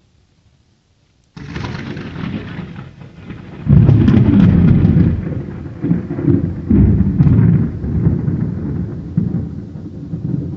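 Thunder: a sudden crackling crash about a second and a half in, then a heavy low rumble from about four seconds that rolls on in repeated surges.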